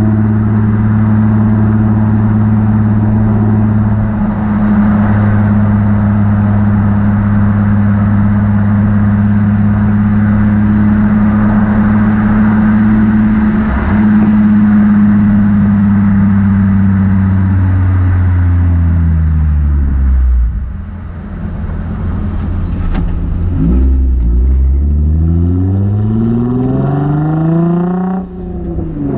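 Nissan 350Z's 3.5-litre V6 through a Motordyne aftermarket exhaust while driving. It holds steady revs for more than half the time, then the revs fall away as the car slows. It then pulls up again with rising pitch, with a brief dip for a gear change near the end before the revs climb once more.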